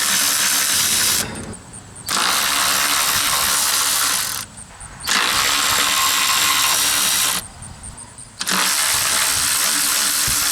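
Power ratchet running in four bursts of about two seconds each with short pauses between them, backing out the 10 mm bolts that hold down the throttle body.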